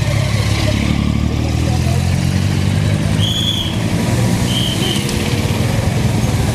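Motorcycle engines running steadily under way, a dense low rumble. Two short high-pitched beeps sound over it, about three and four and a half seconds in.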